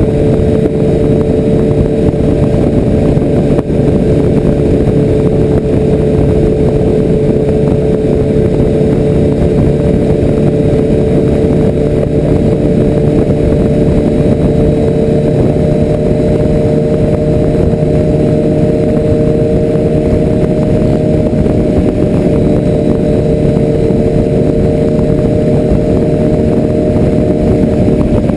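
Motorcycle engine running steadily at cruising speed, its pitch held nearly constant with only a slow, slight rise, under a continuous rush of wind noise.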